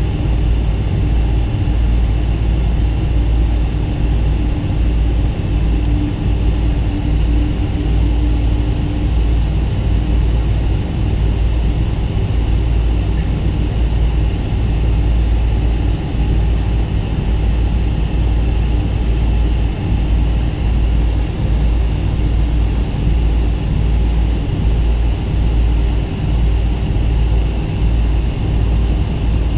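Boeing 777-200 heard from inside the passenger cabin: a loud, steady low rumble of jet engines and airflow, with a faint steady hum joining in briefly a few seconds in.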